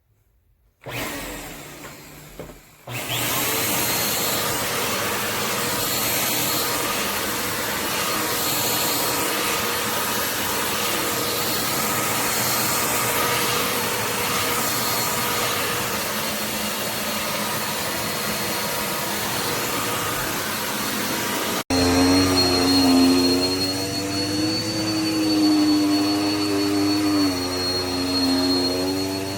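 Upright bagless vacuum cleaner's motor starts about a second in and runs steadily with a loud rushing noise. Near the end the sound cuts abruptly to a running motor with a whine that wavers in pitch.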